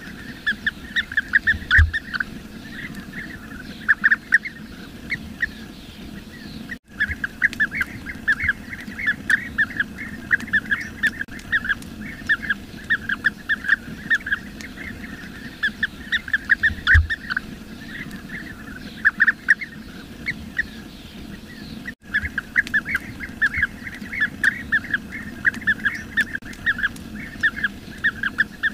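Bee-eaters calling: a dense, continuous stream of short, rolling chirps with no pause between them. The calls drop out for an instant twice.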